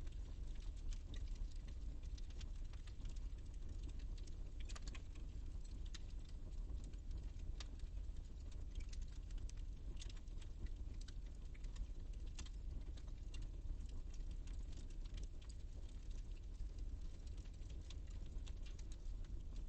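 Fire in a fireplace crackling: irregular sharp snaps and pops, a few louder ones about five seconds in, over a steady low rumble of the flames.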